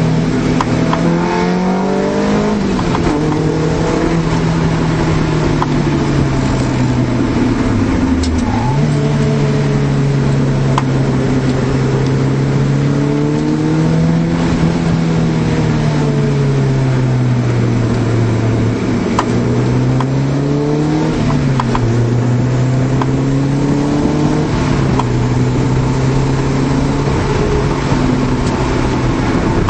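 1991 Honda Civic hatchback's four-cylinder engine heard from inside the cabin, running at high revs with its pitch rising and falling as the car is driven. The revs dip sharply about eight seconds in and again twice near twenty seconds, then climb back.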